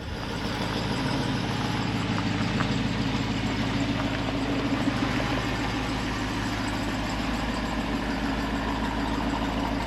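Jeep engine idling steadily, an even low hum.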